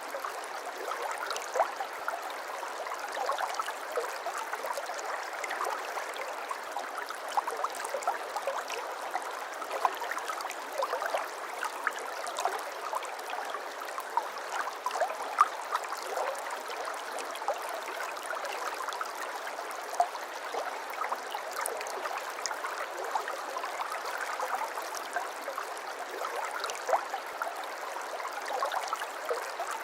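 Stream water flowing steadily and babbling, with many tiny splashes and trickles throughout.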